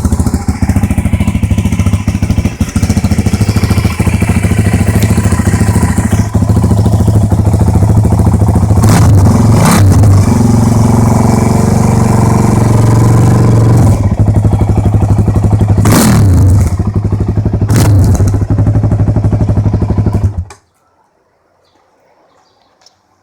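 Suzuki DRZ400SM single-cylinder four-stroke engine running through a Hindle header and a GSX-R1000 muffler, with a few short revs. It cuts off suddenly near the end as the engine is shut down.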